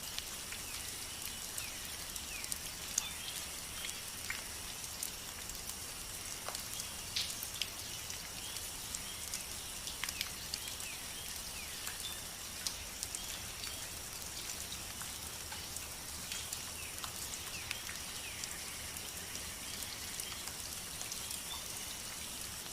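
Outdoor nature ambience of rain: a steady high hiss with many scattered drip-like ticks, over faint steady high tones.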